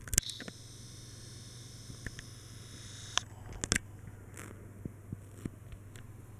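Hampton Bay Huntington III ceiling fan running with a steady low hum, broken by a scatter of sharp clicks and knocks at irregular moments.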